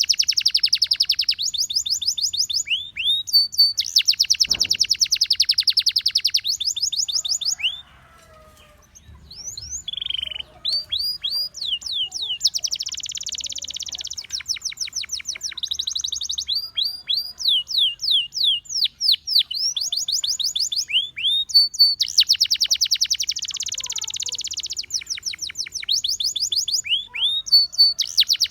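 Gloster canary singing: fast trills and rolls of rapidly repeated sweeping notes, with a short pause about a third of the way in before the song resumes.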